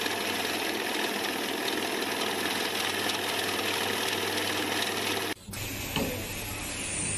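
Steady machine noise that cuts off abruptly about five seconds in, followed by a quieter sound with a few short clicks.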